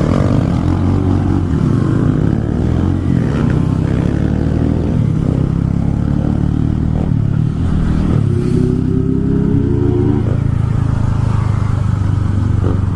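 Motorcycle engines running, rising and falling in pitch as they are revved, most clearly near the start and again about eight to ten seconds in.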